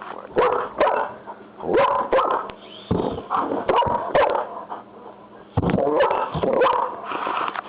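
German shepherd barking over and over in quick groups of excited barks, with a short pause about two-thirds of the way through.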